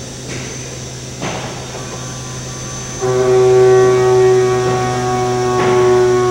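CNC machining center spindle running, then about three seconds in a 3/4-inch end mill cutting aluminum sets up a loud, steady tone with overtones. It is a heavy cut at full axial depth and half the tool width, with the spindle near full power.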